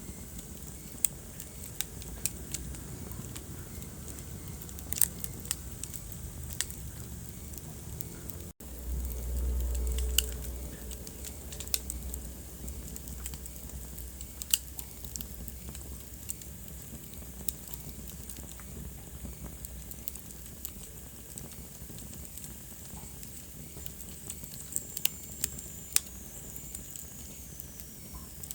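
Wood fire in a fireplace crackling, with irregular sharp pops over a steady low rumble. About eight and a half seconds in the sound cuts out for an instant, and the low rumble comes back louder for a couple of seconds. A faint high whistle slides down near the end.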